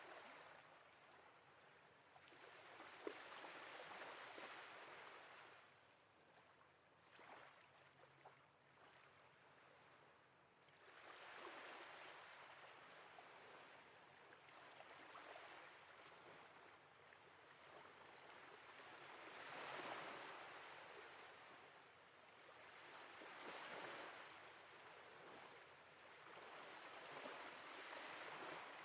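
Faint sea waves washing in and out, swelling and falling back every few seconds.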